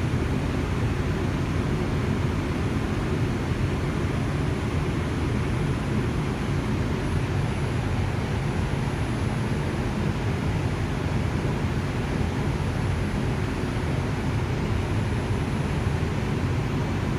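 Inside an R142 subway car running at speed: a steady rumble of the wheels on the rails and the car's running noise, even in loudness with no change in pace.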